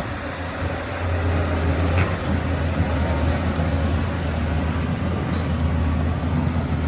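Heavy diesel engine of earthmoving equipment running steadily under load, a constant low drone with a few faint clicks.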